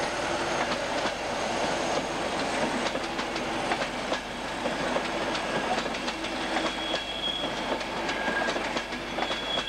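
Train of GNER passenger coaches rolling past, hauled by a departing Class 47 diesel locomotive: a steady rolling rumble with wheels clicking over rail joints. Brief high wheel squeals come about seven seconds in and again near the end.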